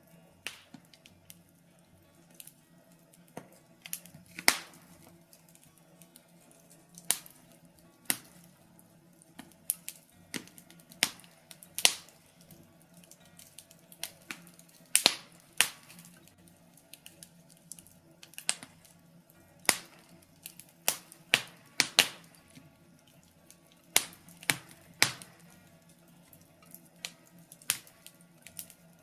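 Birch logs burning in a fireplace, crackling with irregular sharp pops and snaps, a few each second and some much louder than the rest. A faint steady low hum runs underneath.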